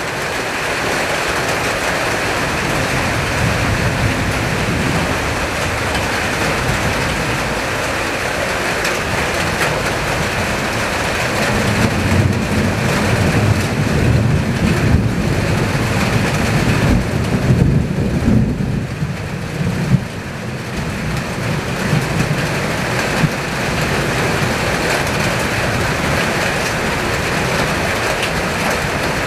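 Heavy rain and strong wind of a summer thunderstorm, a loud, continuous rush of rain. A deeper rumble swells and falls from about twelve to twenty seconds in.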